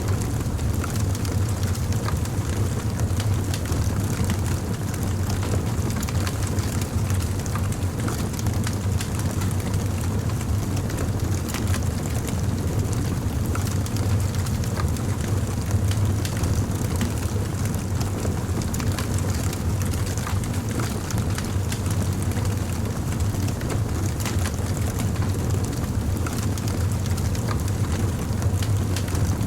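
A fire crackling steadily, with many small sharp pops and snaps over a continuous low rumble.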